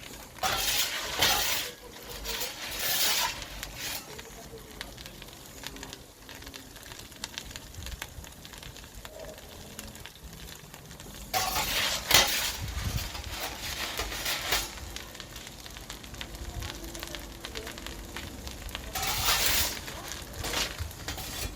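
Wood fire in a pizza oven crackling and hissing steadily, broken by four louder noisy bursts, the longest near the end.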